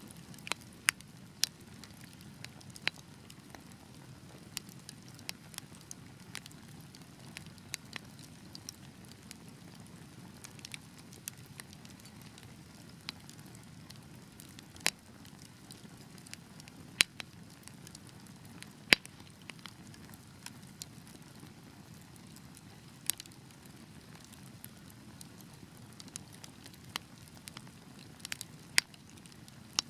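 Wood fire burning in a fireplace: a steady low rush of flames under irregular crackles, with a few sharp louder pops.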